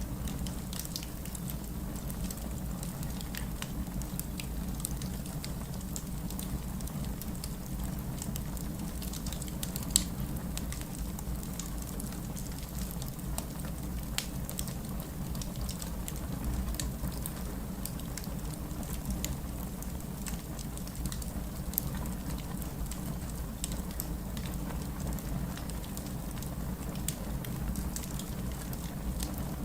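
Fireplace crackling: a steady scatter of sharp pops and snaps, with a louder pop about ten seconds in, over a low steady rush of rain.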